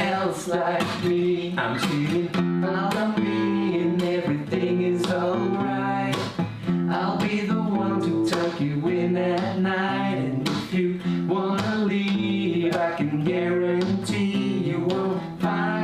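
Acoustic guitar strummed in a steady rhythm with a voice singing along.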